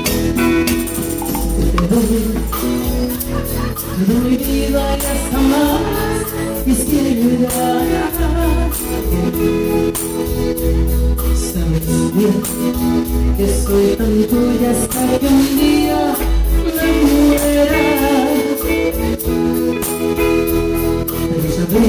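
Live cumbia band playing: a steady dance rhythm on bass and bright shaken percussion, with keyboard or guitar melody and some singing.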